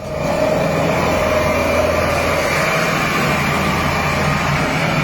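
Heavy diesel engine running steadily with an even, continuous hum.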